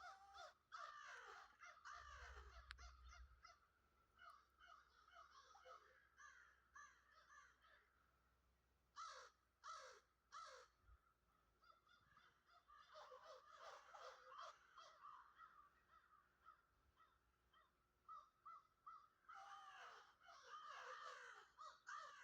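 Faint bird calls: quick runs of chirping, gliding notes, with three louder calls in a row near the middle.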